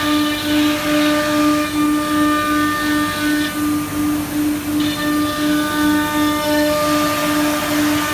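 CNC router spindle running at high speed: a steady whine that pulses about three times a second, over a hiss. The hiss and the higher tones thin out briefly a little after the middle.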